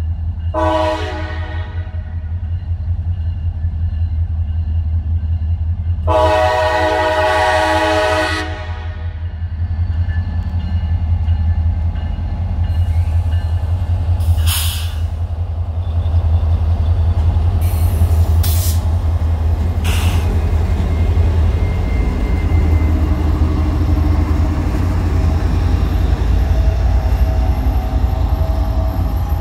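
Diesel locomotives of a CSX work train sounding the horn for a road crossing, a short blast then a long one of about two and a half seconds, then passing close with a steady deep engine rumble that grows louder, broken by a few sharp clanks.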